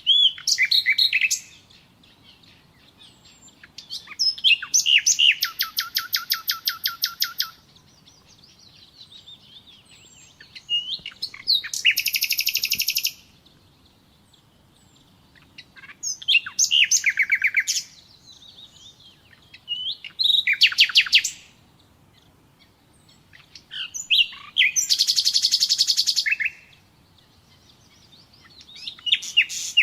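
Nightingale singing: about seven separate song phrases of one to three seconds each, with pauses of a few seconds between them. Many phrases are fast runs of the same note repeated.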